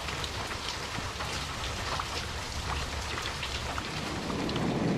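Steady rain falling on ferns, leaves and a paved patio: an even hiss with many small drops ticking through it. A low rumble swells in near the end.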